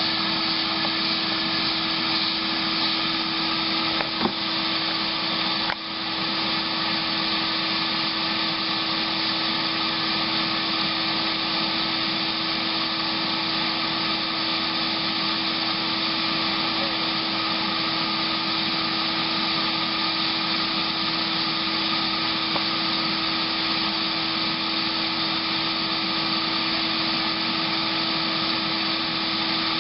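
Electric vacuum running steadily with a constant hum, used as a bee vacuum to draw honey bees out of a wall cavity. There is a short knock about four seconds in.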